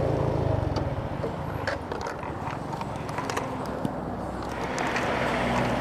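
TVS Apache RTR 180's single-cylinder engine idling with a rough, uneven chugging at low revs, with scattered clicks over it.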